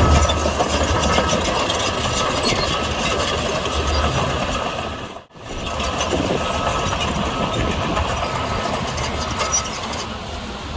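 Diesel engine of heavy earthmoving machinery running steadily with a low rumble. The sound drops out sharply for a moment about halfway through.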